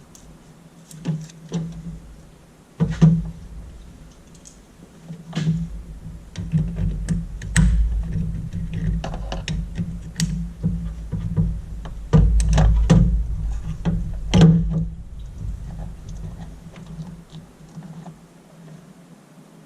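Irregular clicks, knocks and thunks of hands and tools working a plastic coolant overflow tank and its hoses loose in a car's engine bay, over an intermittent low rumble.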